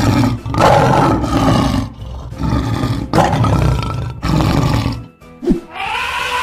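Lion roaring, a run of several loud, rough roars over about five seconds, with background music under it.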